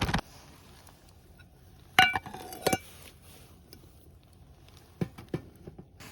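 Tableware clinking: a sharp ringing clink about two seconds in, a second clink just after, then two soft knocks near the end.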